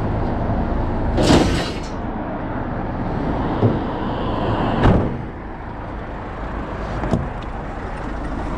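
Scrap and crates being handled and loaded into a van. There is a scraping rush about a second in, then a few separate knocks, the loudest near five seconds, over a steady low rumble.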